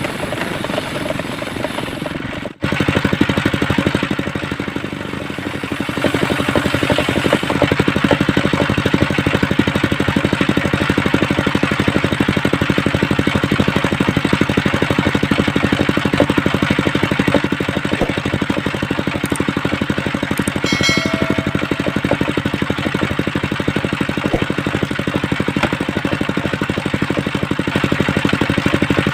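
Engine of a homemade circular saw rig running steadily. The sound breaks off for an instant about two and a half seconds in, and a short high tone sounds about three-quarters of the way through.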